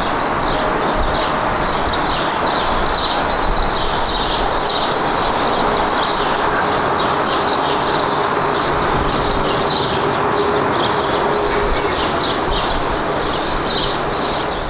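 Steady rushing jet-engine noise from an airliner, with small birds chirping repeatedly over it. A faint steady whine rises out of the noise for a few seconds in the middle.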